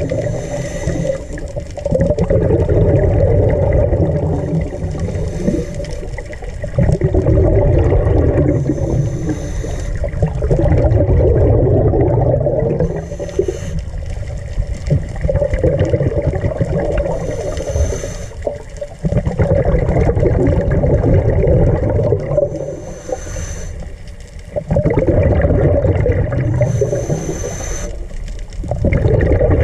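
Underwater sound of a diver breathing: a short regulator hiss on each breath and rumbling, gurgling exhaled bubbles, repeating every few seconds.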